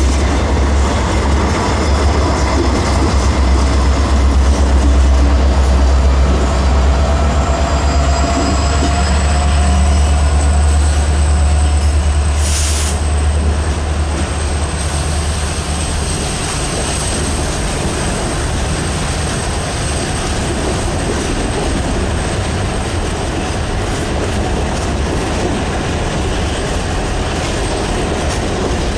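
Norfolk Southern diesel locomotive passing close with a deep engine rumble that fades after about 15 seconds, leaving coal hopper cars rolling by on the curve. A thin steady wheel squeal runs through the second half, and there is a single sharp bang about halfway through.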